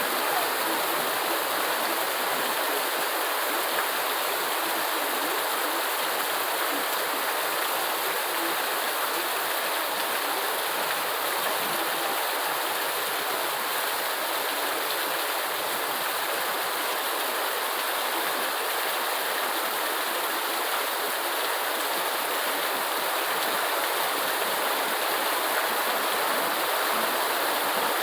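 Steady heavy rain falling in an even, unbroken hiss, with no separate drops or thunder standing out.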